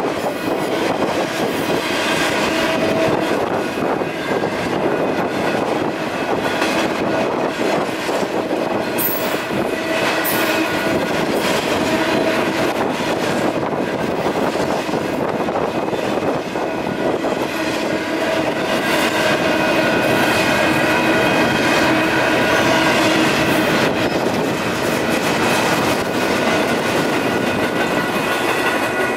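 Union Pacific intermodal double-stack freight cars rolling steadily through a grade crossing, with the crossing's WCH Type 1.5 electronic bell ringing.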